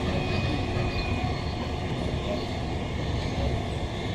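Interior running noise of a Queensland Rail NGR (Bombardier-built electric multiple unit) travelling at speed: a steady rumble of wheels on rail and car body, with no sudden events.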